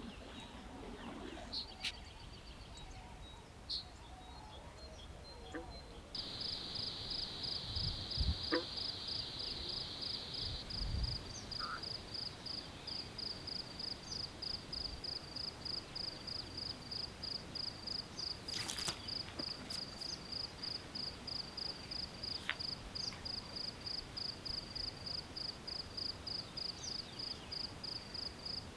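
A cricket chirping in a steady, even pulse of high notes, a few a second, starting abruptly about six seconds in. Before that there are a few scattered bird chirps, and a couple of low thumps follow the cricket's start.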